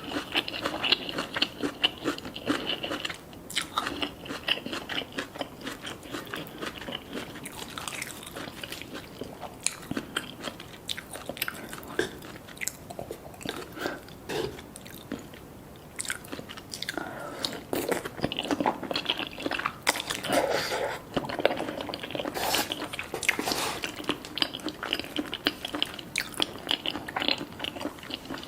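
Close-up crunching and chewing, a person biting and eating something crisp, in many irregular crackly bursts.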